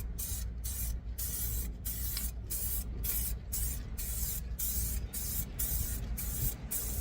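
Paint spraying onto a truck engine: a steady hiss cut by brief pauses about twice a second, over a steady low rumble.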